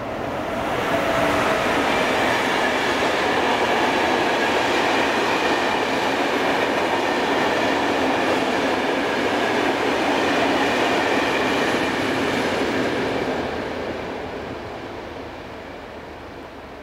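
Container freight train passing at speed: the steady noise of its wagons' wheels running on the rails, swelling about a second in and fading away over the last few seconds as the end of the train draws off.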